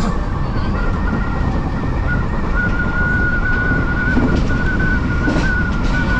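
Odakyu Line electric train running: a steady low rumble of wheels on rails, with a steady high-pitched squeal that grows stronger about two and a half seconds in.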